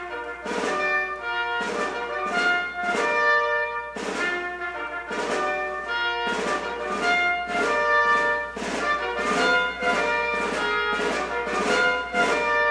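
Background music: an orchestral track led by brass, with a steady beat of accented notes.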